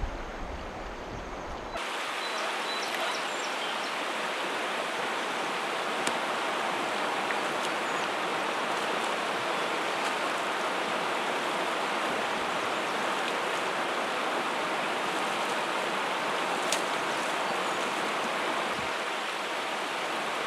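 Steady rushing of water over shallow rock rapids, an even hiss-like wash that holds unchanged; it starts abruptly about two seconds in, after a short stretch of lower, rumbling wind-like noise.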